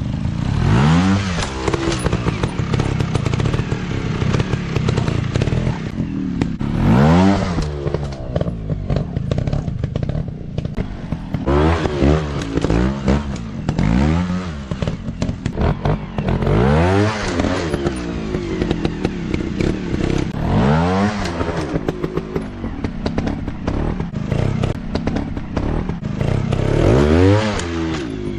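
Dirt bike engines running and revving in repeated bursts: the engine note climbs and falls again every few seconds over a steady running sound.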